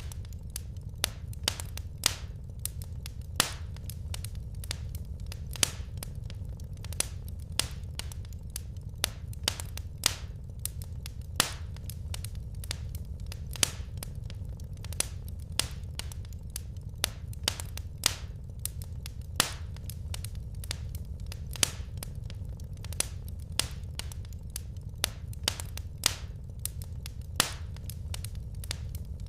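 Wood fire crackling: sharp, irregular pops and snaps, a few louder ones now and then, over a steady low rumble of the burning logs.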